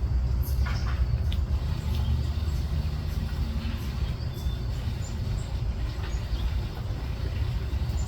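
Steady low outdoor rumble with a few faint, short high chirps of small birds scattered through it.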